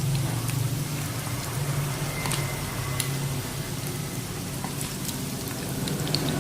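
Breaded fish balls deep-frying in hot oil: a steady sizzle with scattered small pops and crackles, over a low steady hum.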